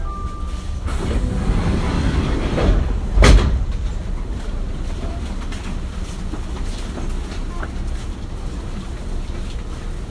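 Cabin sound of a Kintetsu 1420 series electric train, with low rumbling rail and car noise and a sharp loud clunk about three seconds in.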